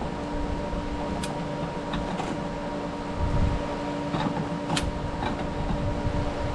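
Steady machine hum over a low rumble, with two sharp clicks, one about a second in and one near the end.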